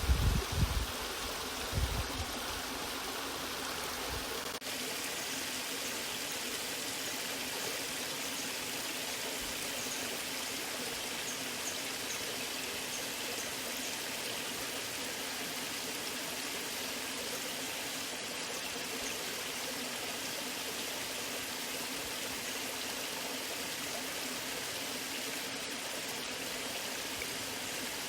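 Waterfall rushing steadily, an even continuous wash of falling water. A few low rumbling thumps come in the first two seconds, then the rush goes on unchanged.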